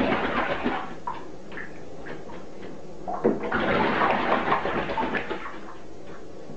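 A small bird bathing in shallow water in a bathtub, splashing with its wings in two bursts: a brief one at the start and a longer one of about two and a half seconds from about three seconds in.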